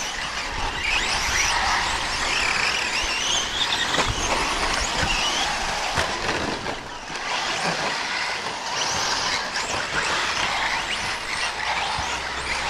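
Several radio-controlled 4WD short course trucks racing, their motors whining, rising and falling with the throttle, several pitches at once. There are a few sharp knocks along the way.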